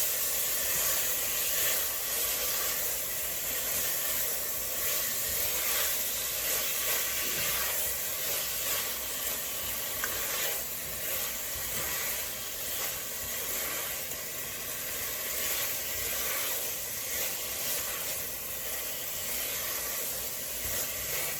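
Cubed chicken breast frying in oil with chili and red curry paste in a pot, a steady sizzle; the chicken is still partly pink and not yet cooked through.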